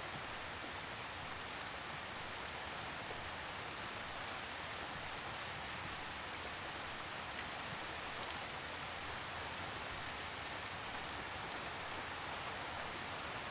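Steady gentle rain falling on a surface: an even hiss with faint scattered drop ticks.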